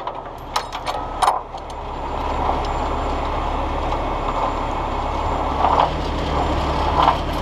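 Heavy tow truck's engine running steadily, getting louder about a second and a half in, with a few sharp metal clinks of chain rigging near the start.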